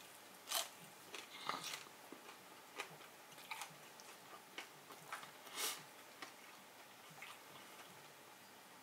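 Someone chewing a bite of a Burger King crunchy taco: faint, irregular crisp crunches of the hard shell, the loudest a little over half way through.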